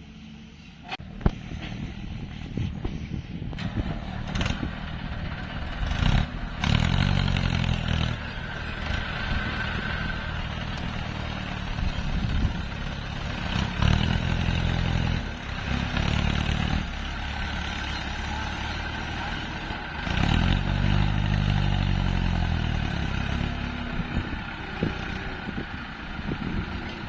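Heavy diesel machinery of an excavator and tractors working: engines running loudly, pitch rising and falling under load several times, with scattered clanks and clatter.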